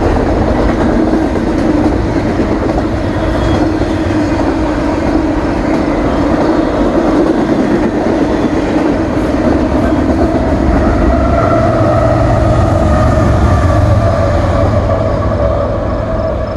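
Double-stack container freight train rolling past with a steady rumble and clatter of wheels on rail. From a little past the middle, the diesel locomotives pushing at the rear as distributed power units come through, adding a steady engine drone that fades again near the end.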